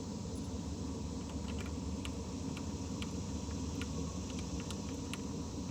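Steady low background rumble with a few faint, light clicks scattered through it.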